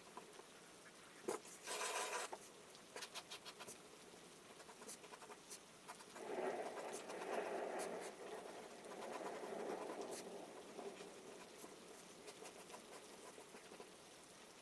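Charcoal scratching and rubbing on paper: a brief scratchy stroke about two seconds in, then two longer rubbing passes in the middle, with faint rain pattering and scattered light ticks behind.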